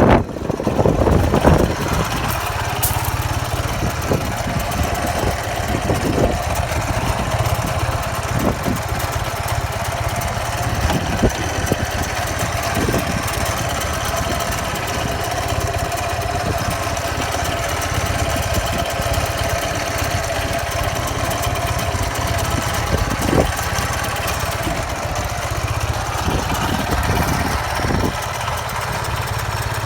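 Ural IMZ 8.103-10 flat-twin motorcycle engine idling steadily, with scattered light knocks. The engine runs on its old timing gears, which the owner says are noisy.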